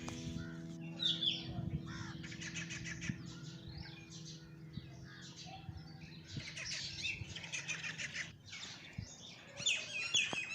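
Birds chirping in quick, repeated short calls, with a held music chord fading out over the first half.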